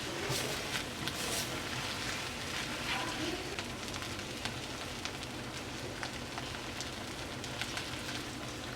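Food frying in oil in a hot pan: a steady sizzle with scattered small pops.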